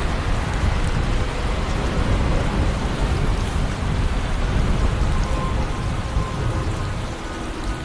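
Heavy rain with deep rumbling thunder, a rain-and-thunderstorm sound effect. Faint musical tones come in about five seconds in and grow near the end.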